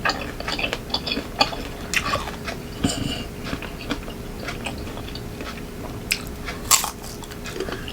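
Close-up crunching and chewing of raw green mango, with irregular crisp bites and crackles.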